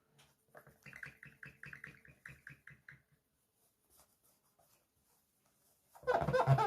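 A cloth rubbed briskly back and forth on mirror glass, squeaking in a quick regular rhythm of about five strokes a second, then stopping. A short loud handling knock near the end.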